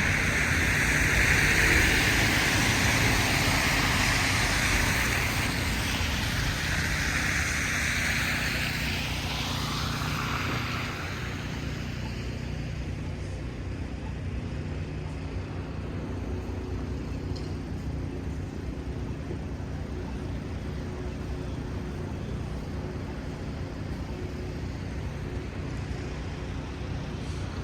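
Street traffic on a snow-covered city street: a loud tyre hiss from passing vehicles fades away after about ten seconds, leaving a steady low hum of engines and traffic.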